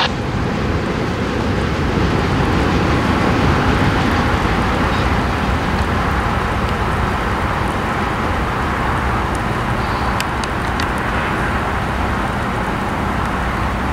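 Norfolk Southern train passing: a steady, loud rumble of rolling wheels on the rails, with a few faint sharp clicks about ten seconds in.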